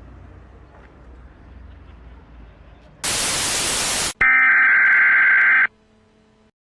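Faint low rumble, then a sudden second-long burst of TV-style static hiss, cut off sharply and followed by a steady electronic beep tone of about a second and a half, then dead silence: an edited static-and-beep transition effect.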